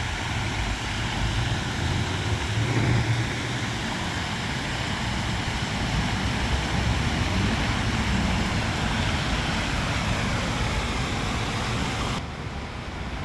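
Steady car engine and road noise: a low drone under an even hiss, easing slightly near the end.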